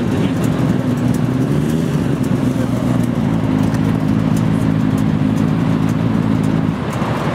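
Motorcycle engine running at a steady pitch, with a constant low road rumble underneath; the engine tone fades about a second before the end.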